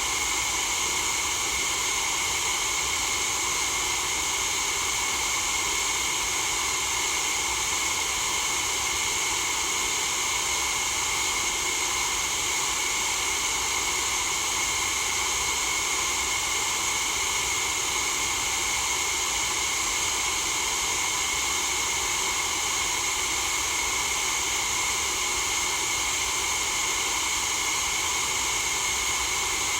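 Steady white noise: an even, unchanging hiss with most of its strength in the upper range.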